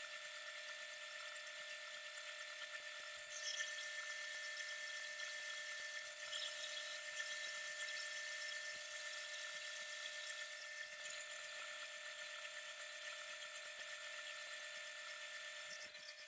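A power tool running steadily with a high-pitched whine, with a few brief louder moments.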